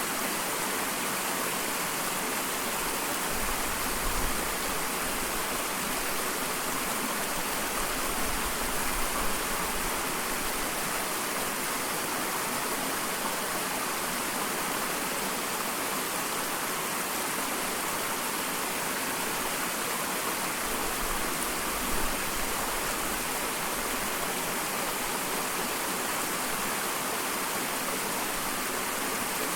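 Small waterfall: water falling and splashing in a steady rushing hiss, with a few brief low rumbles.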